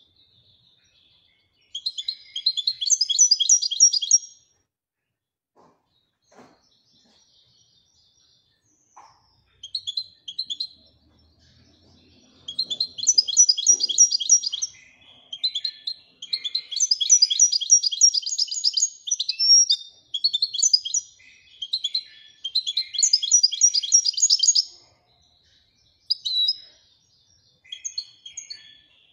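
European goldfinch (Moroccan goldfinch) singing in the 'Wedania' song style: rapid high twittering trills delivered in phrases of one to three seconds. One phrase comes near the start, then a few seconds of near quiet, then a run of phrases with short pauses from about halfway on.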